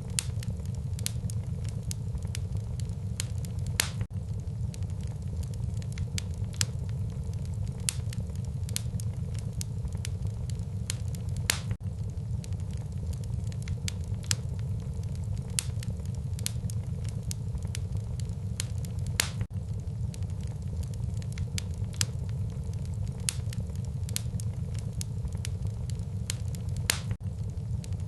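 Wood burning in a fireplace: irregular sharp crackles and pops, several a second, over a steady low rumble of the flames.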